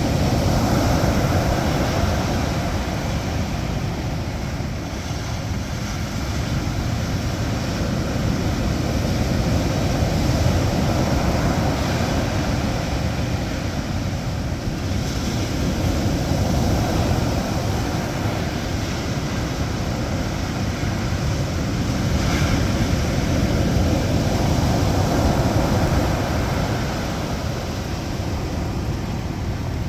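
Rough sea surf, rising and falling every several seconds, with wind buffeting the microphone.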